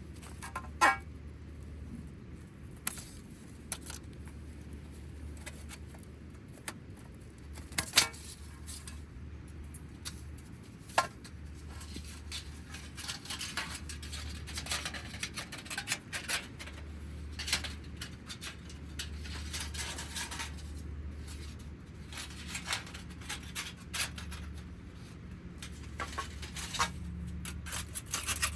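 Small hard objects being handled: scattered clinks, taps and clicks, a few sharper ones about a second, eight seconds and eleven seconds in, over a steady low hum.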